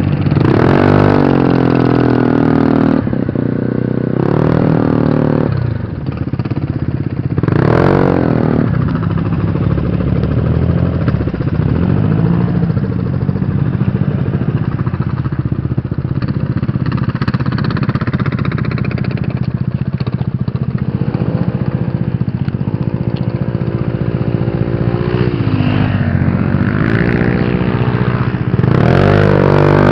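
Scooter engine running under way, its pitch climbing and falling back several times as the throttle is opened and eased, over a steady low engine drone.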